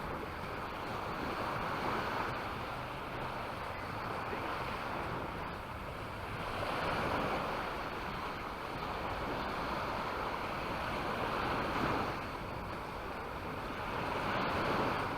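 Small Mediterranean waves breaking and washing up the beach, the surf swelling and easing about every five seconds. Some wind is on the microphone.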